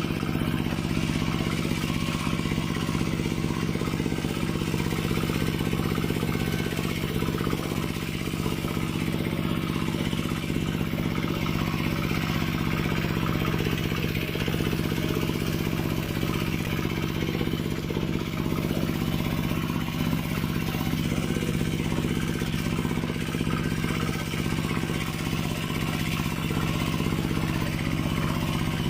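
Mini tractor's engine running steadily at an even pitch.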